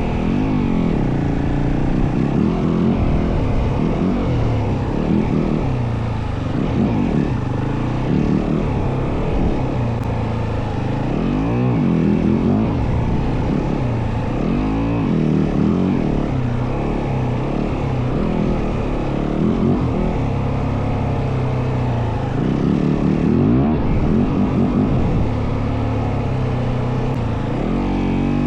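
Yamaha WR450F dirt bike's single-cylinder four-stroke engine running under way. Its pitch rises and falls again and again as the throttle is worked.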